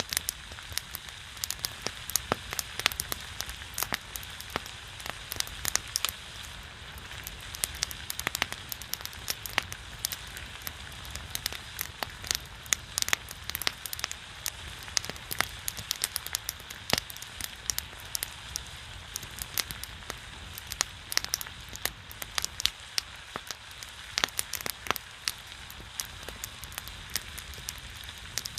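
Pork belly fat sizzling and spitting on a griddle over a pine-wood fire, a steady rain-like hiss with frequent sharp pops and crackles.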